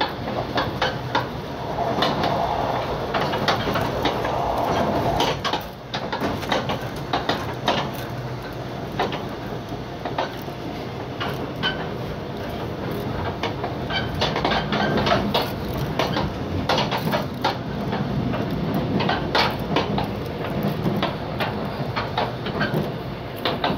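Passenger train running at speed, heard from inside the carriage: a steady rumble of wheels on rail with frequent irregular clicks and rattles from wheels over rail joints and loose carriage fittings.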